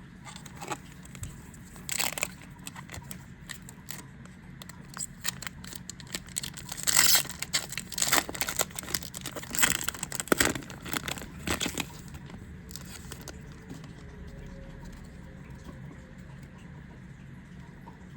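Foil booster pack wrapper being torn open and crinkled by hand, in a run of sharp rustling and crackling bursts that settle down about two-thirds of the way through.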